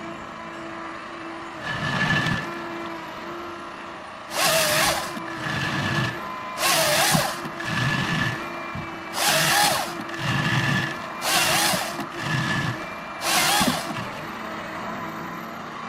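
Heavy forestry machine running steadily, with five loud hissing bursts about every two seconds and duller thumps between them.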